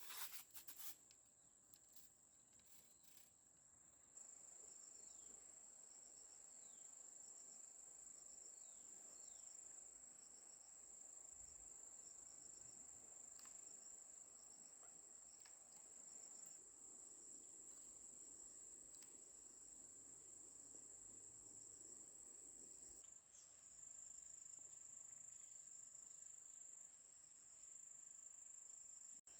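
Faint, steady high-pitched trill of insects, with a few sharp clicks about a second in.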